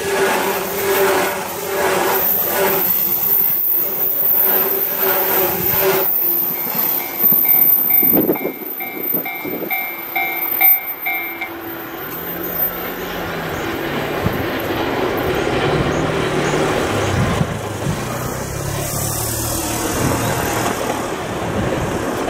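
JR 185 series electric multiple unit passing close by, its wheels clicking rapidly over rail joints under a steady hum, then running on. For several seconds in the middle a bell-like alarm dings about two to three times a second, followed by a steady rumble of train running.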